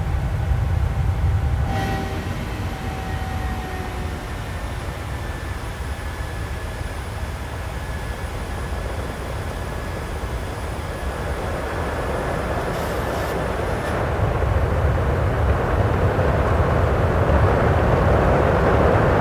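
Boeing 737 cabin noise in climb: a steady low engine rumble with faint thin whining tones from the engines. A rushing air noise swells steadily louder through the second half.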